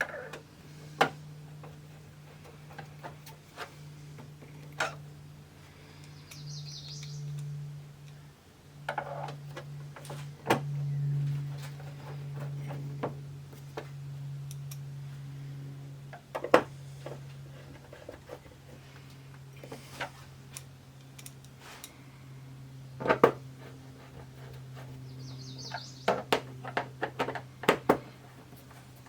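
Scattered clicks and knocks of screws and plastic TV parts being handled and fitted during reassembly, in an irregular series that grows busier near the end, over a steady low hum.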